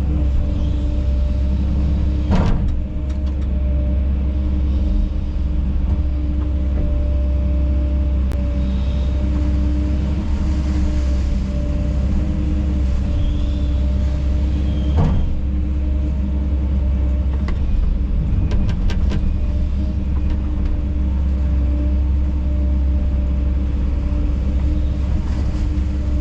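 Kobelco SK210 hydraulic excavator's diesel engine running steadily under work, with a few sharp knocks about two seconds in, midway, and a quick cluster later on.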